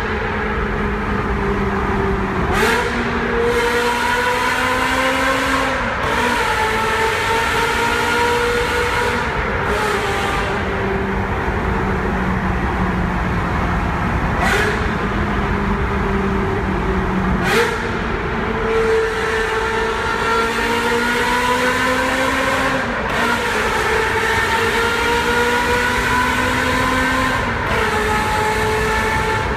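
Ferrari 360 Modena's V8 running through a Kreissieg aftermarket exhaust while driving, its pitch gliding slowly up and down. About six abrupt breaks where the pitch steps are gear changes of the F1 paddle-shift gearbox.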